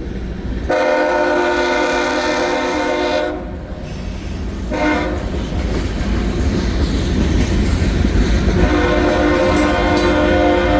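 Horn of an approaching GE ES44AH diesel locomotive sounding for a grade crossing: a long blast of about two and a half seconds, a short blast, then another long blast starting near the end, over the low rumble of the train drawing nearer.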